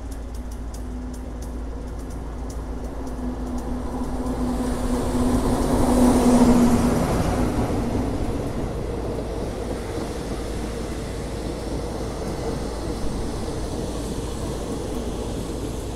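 Diesel locomotive of a passenger train approaching along the platform, its engine hum building to its loudest about six seconds in as it passes, then the passenger coaches rolling by as the train slows into the station.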